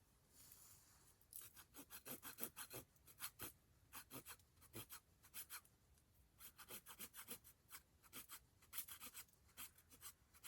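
Campfire crackling softly: clusters of small sharp pops and snaps from burning wood, with short lulls between them.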